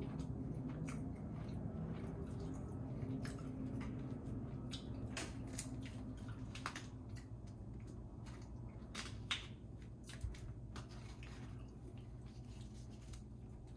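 A person chewing and eating food close to the microphone, with scattered sharp mouth clicks and smacks over a steady low hum.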